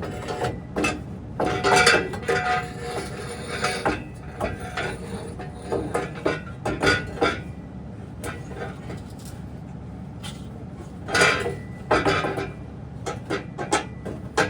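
Metal clanking and knocking as a steel exhaust header is worked around the engine and frame, trying to get it into place. The clanks come in scattered strikes, with louder clusters about two seconds in and about eleven seconds in.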